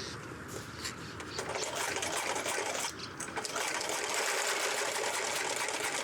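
Electric sewing machine stitching: it starts up about a second and a half in, pauses briefly about halfway, then keeps running.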